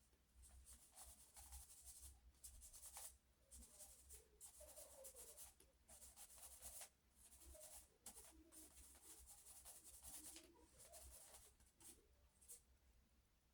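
Faint, uneven sketching strokes of a drawing tool scratching across paper, some short and some drawn out.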